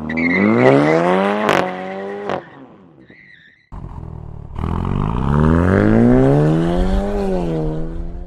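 Jaguar F-Type rally car's 2.0-litre Ingenium four-cylinder petrol engine accelerating hard, its revs rising, in two separate passes. In the first, the revs climb, hold and fall away about two and a half seconds in. In the second, they climb again from about four and a half seconds in and ease off near the end.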